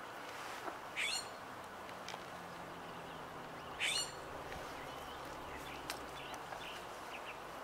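A bird calling twice in short sweeping calls, about a second in and again about four seconds in, with a few faint chirps after, over a steady outdoor hiss.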